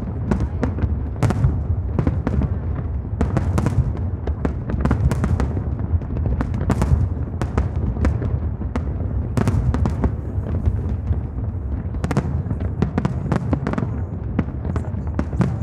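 Aerial fireworks exploding in a dense, continuous barrage: many sharp bangs and crackles overlapping one another, over a steady low rumble.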